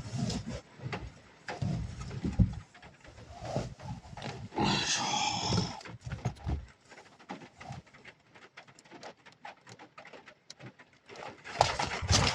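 Rustling and knocking inside a small car as someone shifts about and settles down to sleep, with a burst of rustling about five seconds in, then scattered faint taps, and a louder clatter near the end.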